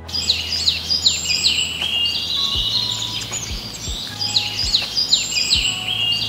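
A chorus of birds singing and chirping: many quick, overlapping calls that sweep downward in pitch, over a steady low hum.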